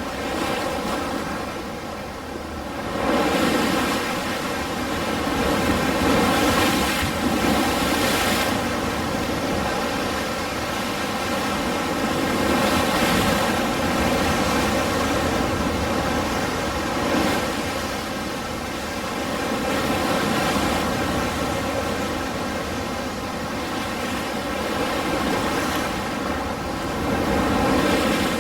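Ocean surf: waves breaking and washing in, swelling and falling back in surges every few seconds.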